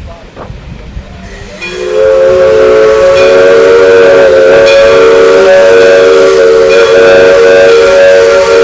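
Steam locomotive whistle coming in about two seconds in and held as one long, loud blast of several tones sounding together.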